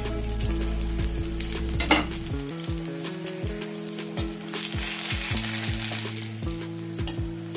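Oil sizzling under a vegetable semolina pancake frying in a steel kadai, with a perforated steel skimmer scraping under it and lifting it. There is one sharp metal clink about two seconds in.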